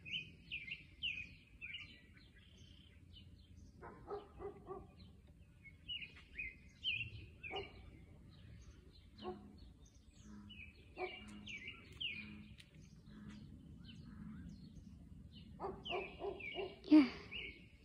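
A songbird singing outdoors: clusters of short, high chirping notes, phrase after phrase with pauses of a few seconds between them. A few short lower-pitched sounds come between the phrases.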